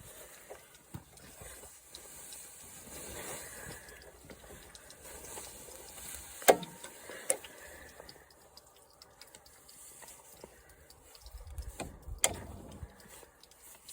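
Clicks and knocks of hand work on a lawn mower being taken apart, as parts and tools are handled, with two sharp, loud knocks, one about halfway through and one near the end.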